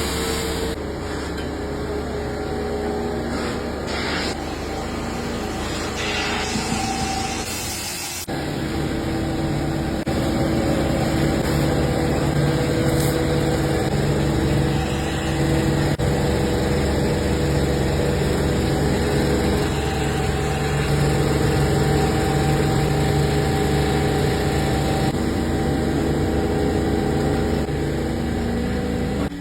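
An engine or motor running steadily with a low, even hum. Its sound shifts about eight seconds in and it runs a little louder after that.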